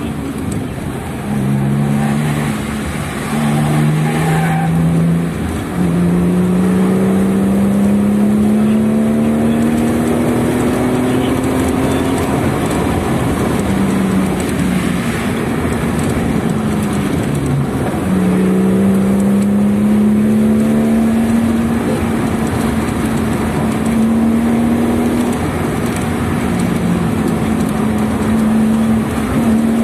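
Car engine heard from inside the cabin, its note climbing slowly and then dropping back several times as the driver changes gear or lifts off, over steady road and wind noise.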